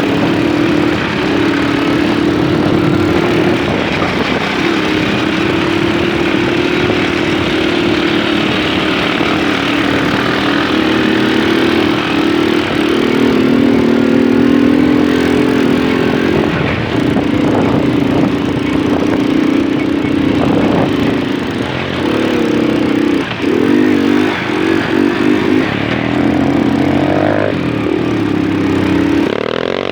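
Small moped engine running under way, its pitch stepping up and down with the throttle and wavering more toward the end, over a steady rush of noise.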